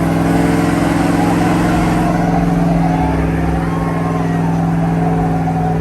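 Diesel truck engine held at steady high revs, its pitch level throughout.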